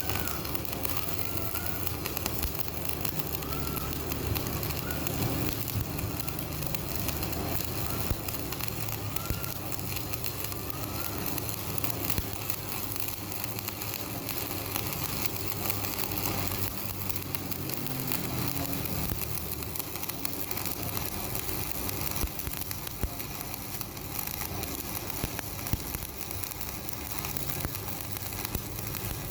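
Electric welding arc on a steel truck wheel rim, a steady crackle and sputter with frequent sharp pops, over a low hum.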